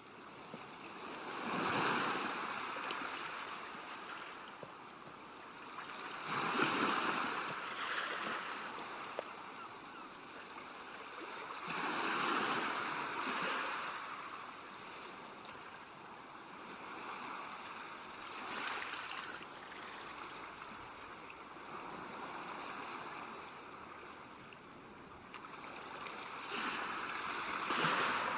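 Ocean waves breaking on a shore, each surge rising and fading over a few seconds, about five times, over a constant wash of surf.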